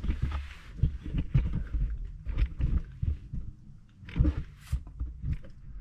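Close handling noise: a recording camera or phone being moved and propped in place, with irregular bumps, knocks and rustles on the microphone.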